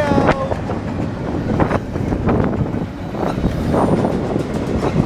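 Empty bare-table intermodal cars of a Norfolk Southern freight train rolling past, with a steady rumble of wheels on rail and irregular clanks and knocks from the empty cars.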